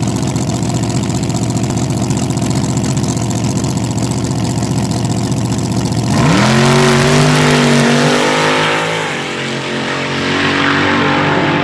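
Front-engine dragster's V8 idling with a steady, even beat, then about six seconds in going to full throttle with a sudden jump in loudness and a rising pitch, easing briefly a few seconds later before running hard again.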